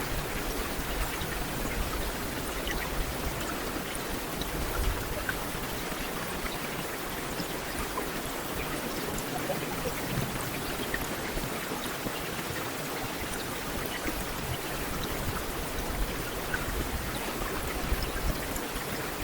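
Heavy rain falling steadily on a street: a dense, even hiss with scattered sharper drop ticks.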